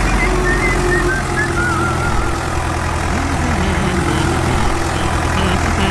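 Engine of an earthmoving machine running steadily at idle, a continuous low rumble.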